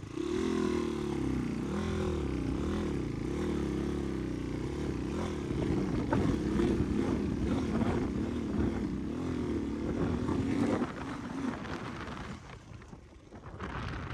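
Dirt bike engine running with its revs rising and falling in repeated uneven surges, then dropping away about eleven seconds in.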